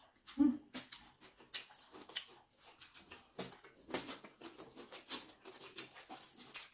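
Close-miked eating sounds: chewing and lip smacks heard as a run of irregular small clicks, a few of them louder, with a brief low hum about half a second in.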